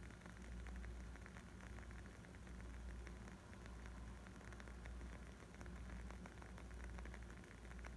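Wood fire crackling: a dense scatter of small pops and snaps over a steady low rumble.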